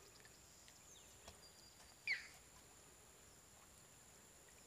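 Near silence with one short bird call about two seconds in, a quick whistle falling in pitch, over a faint steady high-pitched tone.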